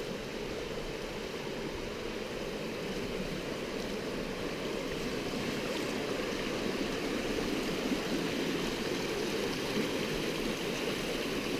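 Running water from a stream: a steady rushing that grows gradually louder.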